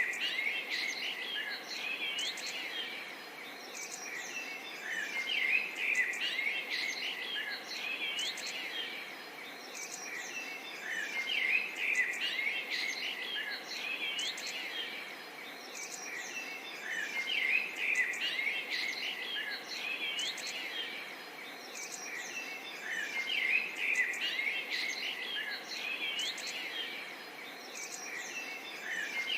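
A chorus of many songbirds chirping and trilling at once, with dense, overlapping calls that swell and ease every few seconds.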